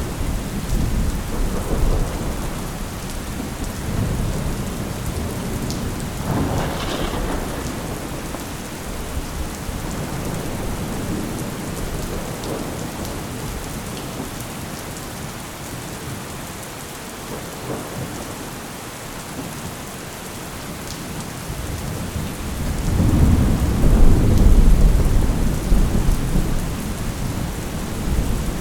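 Steady heavy rain with rolling thunder; a loud, deep rumble of thunder swells up about two-thirds of the way through.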